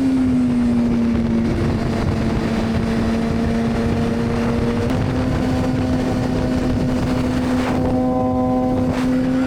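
Honda CBR600RR's inline-four engine running at steady high revs, its tone creeping slowly higher, over wind and road noise.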